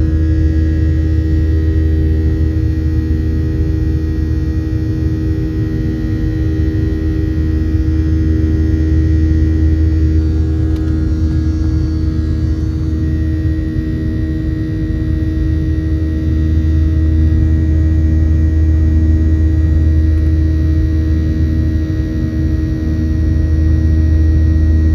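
Cabin noise inside a Boeing 737-700 with its CFM56-7B engines running: a loud, steady low drone with a steady hum and a slowly pulsing tone over it.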